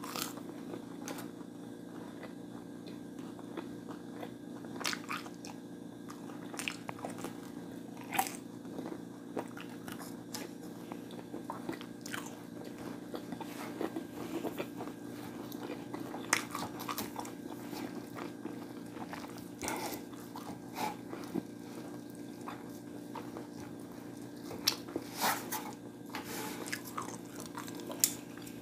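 Close-up eating sounds: a person chewing and biting into crispy fried food, with irregular crunches and mouth noises over a steady low hum.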